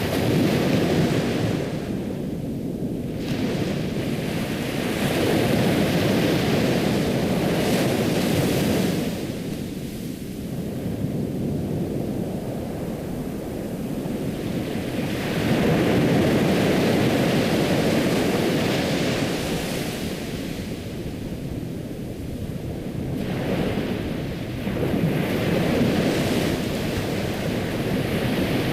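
Ocean surf: waves washing in and drawing back as a steady rushing hiss that swells and fades every several seconds.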